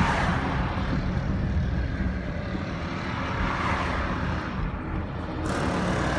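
Unidentified loud outdoor drone: a steady low rumble with a rushing noise above it that swells and eases several times.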